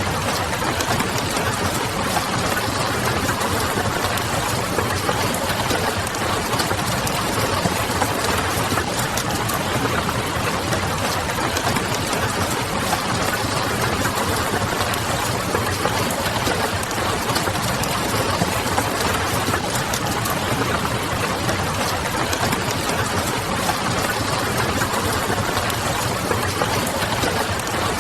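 Ambience mix of rain pattering on a window and a wood fire crackling, over a low hum, with many small crackles and ticks.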